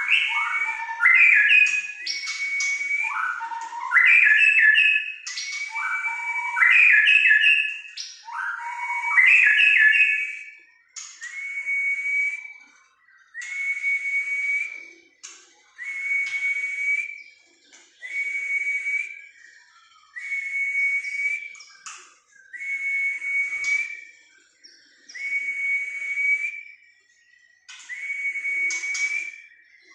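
Whistled bird song played to make a white-rumped shama answer. It opens with loud runs of whistled notes that step downward in pitch, then changes to one steady high whistle, about a second long, repeated roughly every two seconds.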